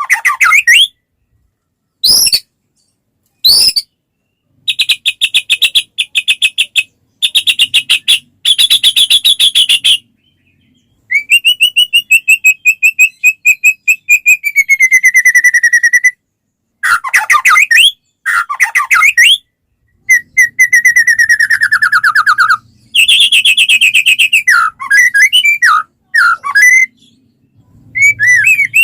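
White-rumped shama (murai batu) singing a loud, varied song in phrases broken by short pauses. It mixes fast rattling trills, a long clear whistle that slides down near the middle, and quick whistled notes.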